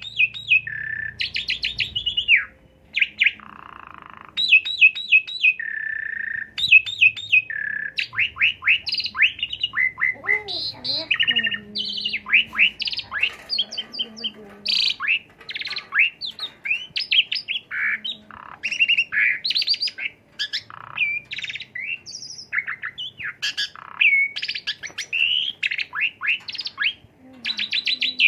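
Asian pied starling (jalak suren) singing a long, fast and varied song: quick chattering runs, sliding whistles and repeated phrases, the mimicked calls that make up its learned repertoire (isian).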